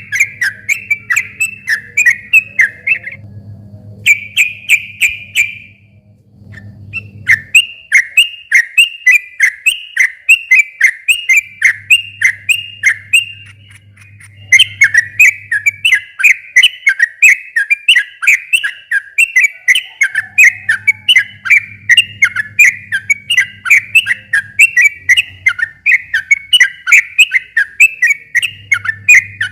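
Yellow-vented bulbul (trucukan) singing long, fast runs of repeated chirpy whistled notes, about three a second, broken by a few short pauses.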